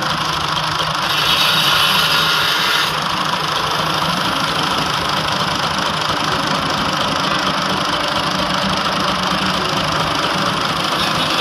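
Tractor engine running steadily, with a brief hissing noise over it between about one and three seconds in.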